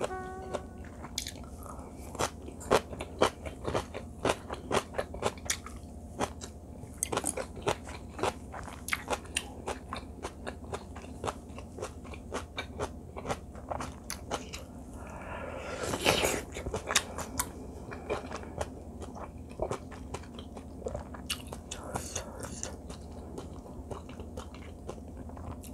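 Close-miked eating sounds: a person chewing a mouthful of rice and tofu, with many quick mouth clicks throughout. A brief, louder hiss comes about sixteen seconds in.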